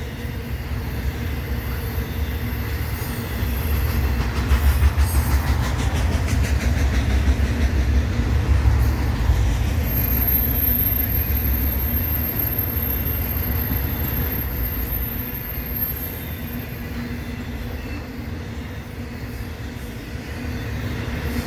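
BNSF westbound intermodal freight train's cars rolling past: a heavy, steady rumble with wheels clicking over the rail joints, loudest a few seconds in and easing off somewhat toward the end.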